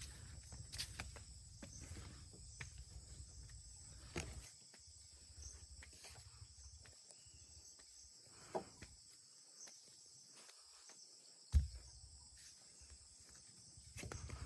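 Steady high-pitched chirring of crickets or other insects in forest, with scattered crackles and taps like movement through dry undergrowth and one louder knock near the end.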